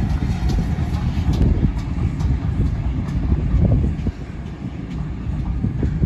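Steam-hauled passenger train running past behind a GWR prairie tank locomotive: a steady low rumble of the coaches on the track with scattered clicks, easing off a little about four seconds in.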